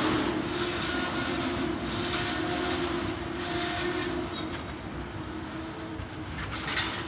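Freight train of tank wagons rolling slowly past on the rails, with a steady squeal that fades out about four seconds in. The train is slowing as it arrives in the yard, and the sound slowly dies away.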